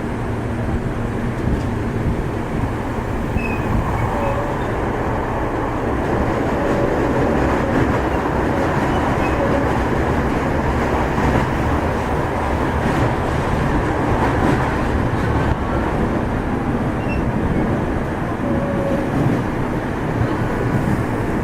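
Toei Shinjuku Line subway car running at speed through the tunnel, heard from inside the car: a steady rumble of wheels on rail and running gear, with a few faint short squeaks.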